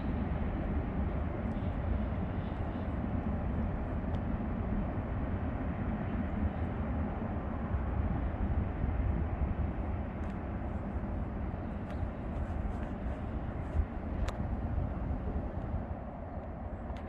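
Distant rumble of a departing Norfolk Southern freight train, slowly fading.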